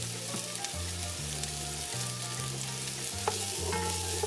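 Chopped onion frying in oil in a heavy-bottomed pot: a steady sizzle with a few sharp clicks from stirring. Soft background music with a stepping bass line plays underneath.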